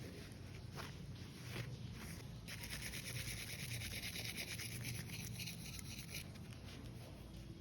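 Hand scrubbing on a part, a dense scratchy rubbing lasting about four seconds from about two and a half seconds in, after a couple of light knocks.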